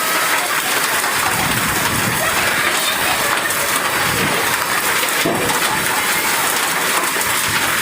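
Heavy rain pouring down in a cyclone storm: a loud, steady, dense hiss that does not let up.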